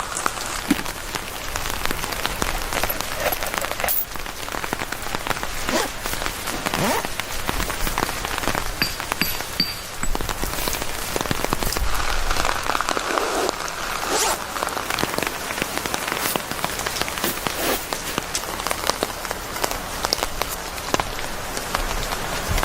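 Rain falling steadily on a surface, a dense patter of many small drop ticks.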